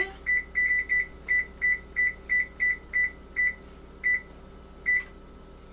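Electronic oven control panel beeping as its keypad is pressed to set the preheat temperature: about fourteen short, high, identical beeps at an uneven pace, coming quickly at first and then more slowly, the last about five seconds in.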